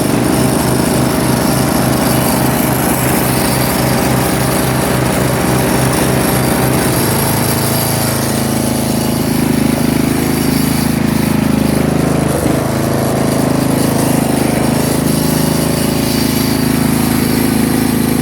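Craftsman riding lawnmower's 12.5 hp Briggs & Stratton engine running steadily just after a choked start, its note changing about seven seconds in.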